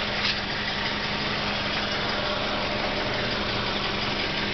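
Toyota Revo engine idling steadily, heard close up from under the vehicle, with a steady low hum.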